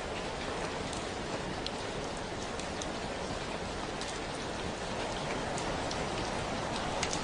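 Steady rainfall, an even hiss of rain on surfaces with scattered individual drops ticking throughout.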